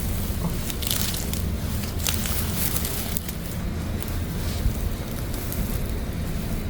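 Crisp crackling and tearing of water dropwort stems being plucked by hand, in a few short spells, over a steady low rumble of wind on the microphone.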